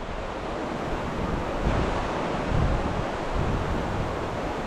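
River water rushing steadily, with wind buffeting the microphone in uneven low rumbles.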